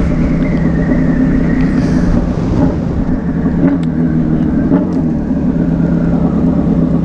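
Suzuki B-King's 1340 cc inline-four engine running steadily while the motorcycle cruises, with a low rumble and a faint whine that slowly drops in pitch.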